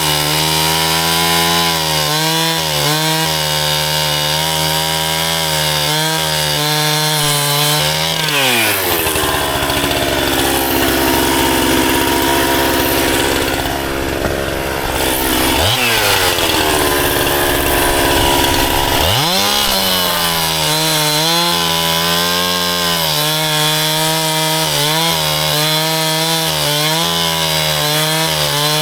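Two-stroke chainsaw running at full throttle, then dropping in pitch as it bites into a log and cuts under load for about ten seconds, then revving back up once it is free. Its chain is just on the edge of needing sharpening.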